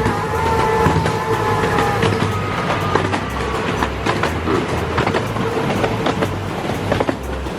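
Miniature steam railway train running along the track, heard from a carriage. A high ringing squeal fades out over the first few seconds, then sharp irregular clicks of the wheels over the rail joints continue above a low rumble.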